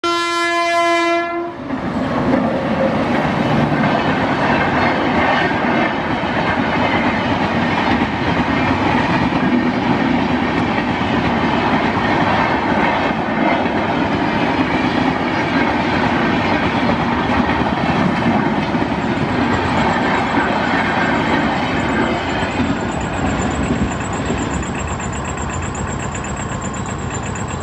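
An Indian Railways Rajdhani Express passing a level crossing at about 130 km/h. The locomotive horn sounds once for about a second and a half, then the coaches rush past with wheel clatter on the rails. The noise eases off near the end as the last coaches go by.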